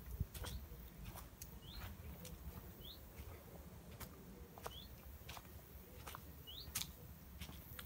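A small bird gives four short rising chirps, a second or two apart, over footsteps on a dirt path and a low rumble of handling and wind on the microphone.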